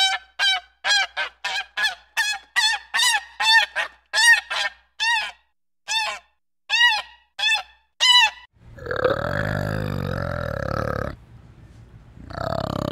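Black swan giving a quick run of short, high, honking calls, about three a second, slowing after about five seconds and stopping at about eight seconds. This is followed by a low, rough, drawn-out call from an orangutan, about two seconds long, which breaks off and starts again near the end.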